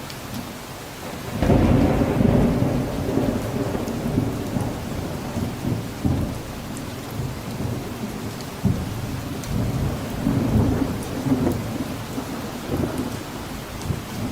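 Steady rain falling, with thunder: a loud clap breaks about a second and a half in and rolls on as a low rumble, swelling again later on.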